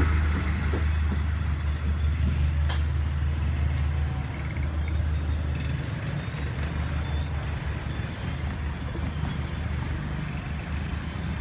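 Low, heavy diesel engine rumble from vehicles at a railway level crossing, fading gradually, with a single sharp click about two and a half seconds in.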